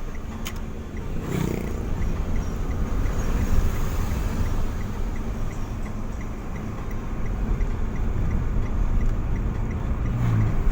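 Car on the move: a steady low rumble of engine and road noise, with a faint regular ticking about three times a second.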